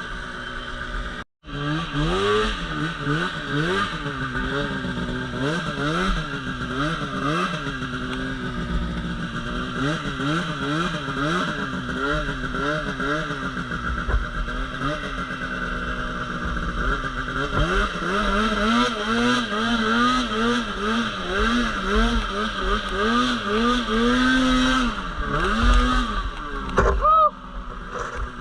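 Polaris RMK Pro 800 snowmobile's two-stroke twin engine revving up and down over and over as it is ridden through deep powder. The sound cuts out for a moment about a second in.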